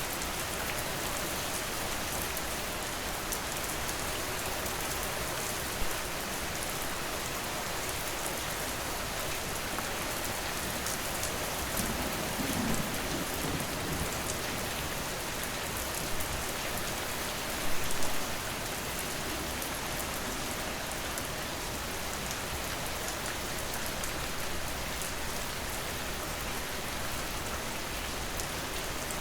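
Steady rain falling, an even dense hiss, with a brief low rumble near the middle. There are a few short louder moments, one about six seconds in and a stronger one around eighteen seconds.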